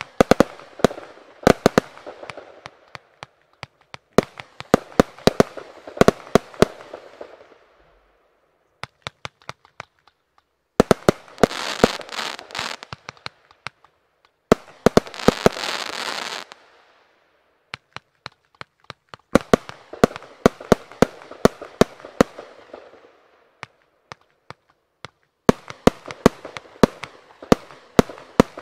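Riakeo Excalibur firework compound firing volley after volley: clusters of sharp launch reports and shell bursts, each group trailing off in crackle, heard from about 80 paces. Midway come two spells of loud dense hissing of about two seconds each, with short pauses between the volleys.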